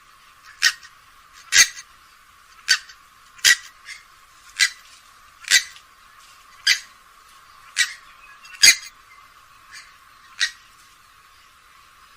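Grey-headed swamphen calling: a series of short, sharp notes repeated about once a second, stopping shortly before the end.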